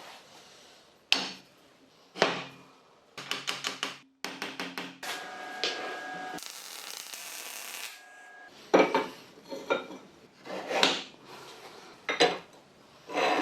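Metal parts being handled and struck in a workshop: separate sharp knocks and clinks, a quick run of rapid taps, a brief ringing tone, and a short hiss of about a second and a half midway.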